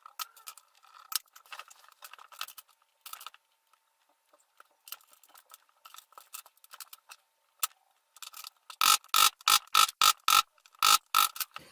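Small brushless outrunner motor being taken apart: light clicks and scrapes of metal parts being handled, then near the end about nine sharp metallic taps in quick succession, each with a short ringing tone, as the stator and shaft are knocked out of the bell.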